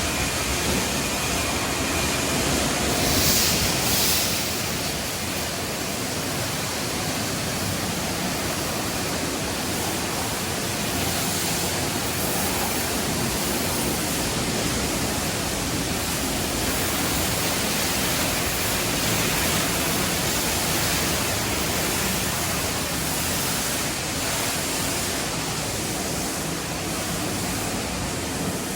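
Automatic car wash tunnel equipment running, heard from outside: a steady rushing hiss, with a brief louder burst of hiss about three seconds in.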